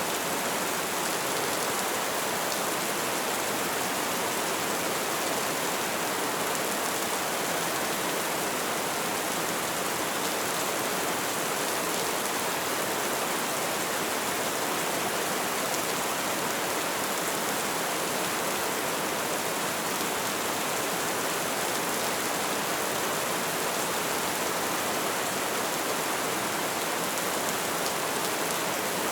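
Light rain falling in a steady, even hiss, with faint drop ticks.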